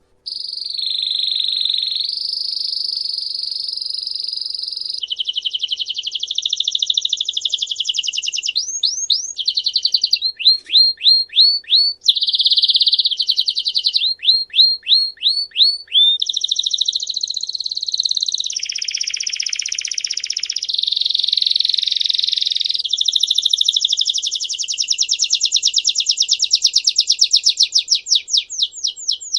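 Songbird singing a continuous, high song of rapid trills and rolls. Each trill is held at one pitch for a second or several before switching to the next, and the song is broken up here and there by series of quick falling notes.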